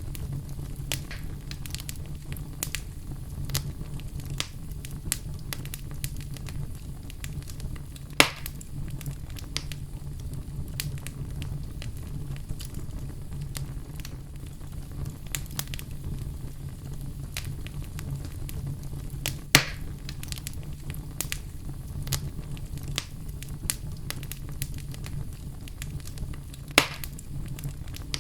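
Wood fire crackling steadily over a low rumble, with many small snaps and three louder pops: about 8 seconds in, about 19 seconds in, and near the end.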